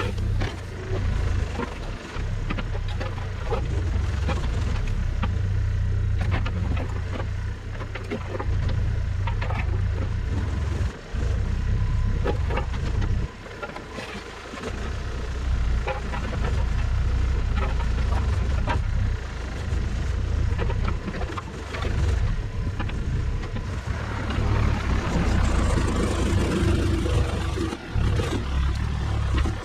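Engine of heavy machinery running, rising and falling with load, with frequent knocks and clatter scattered throughout.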